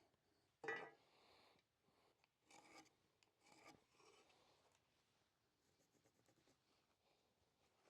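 Faint handling sounds of wooden bench parts being positioned: a short knock about a second in, then a few brief scrapes and rubs.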